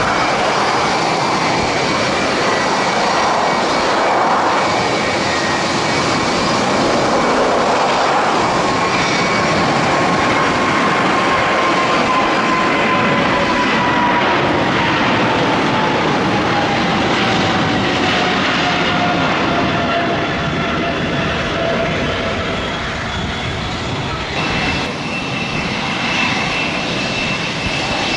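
Boeing 777 jet engines at takeoff power on departure: a loud, steady roar with a whine that falls slowly in pitch as the airliner climbs away. Near the end a higher, steady whine comes in.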